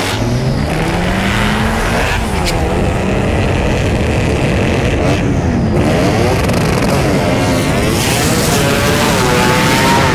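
A 9th-generation Honda Civic's engine at full throttle down a drag strip. Its pitch climbs through each gear and drops at the shifts, about two and six seconds in, with wind and road noise growing towards the end.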